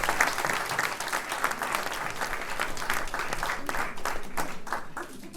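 Audience applauding at the end of a song, the clapping thinning out and fading toward the end.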